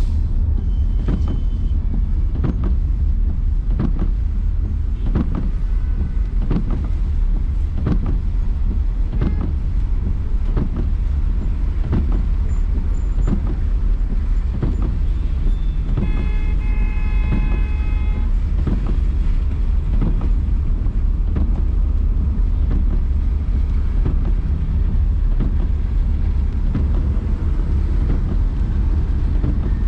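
Steady heavy rumble of a car driving in traffic, with scattered irregular knocks. A vehicle horn sounds for about two seconds roughly halfway through.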